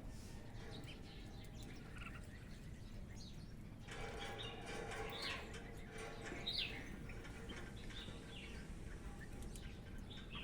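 Small birds chirping: short, scattered high calls, several a second at times, over a steady outdoor background that grows fuller from about four seconds in.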